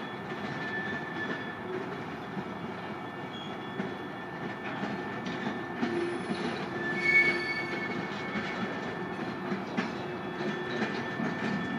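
Canadian National freight train cars rolling over the junction trackwork with a steady wheel rumble. Short wheel squeals come and go, the loudest about seven seconds in.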